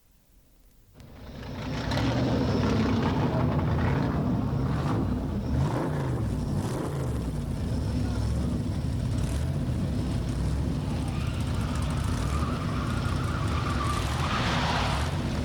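Stock car engines running at a short track, fading in after a second of near silence and then going on steadily, with some rises and falls in engine pitch.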